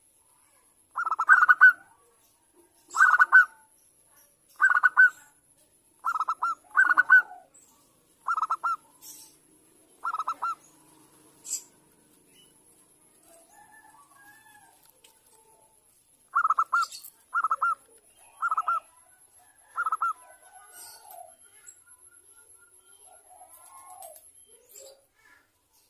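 Zebra dove (perkutut) cooing: short clusters of quick staccato coo notes, repeated about every one and a half seconds, then a pause of several seconds with faint softer calls before four more clusters.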